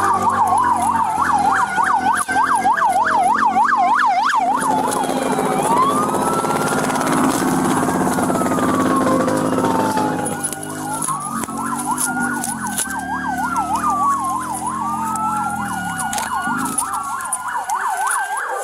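Several emergency vehicle sirens sound at once, overlapping. Fast yelp cycles alternate with slower rising and falling wails. A low steady rumble runs beneath them and drops away near the end.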